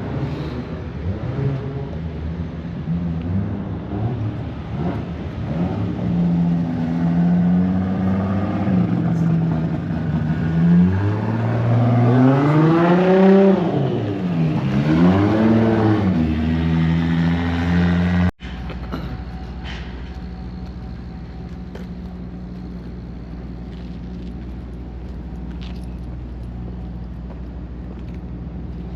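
A car engine running, its pitch wandering, revved up and back down twice in the middle. Then an abrupt cut to a steady low engine drone.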